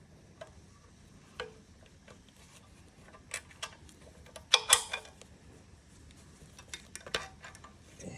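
Irregular metal clicks and clinks of hand tools against engine parts during an engine teardown, with a louder clatter of metal on metal about halfway through.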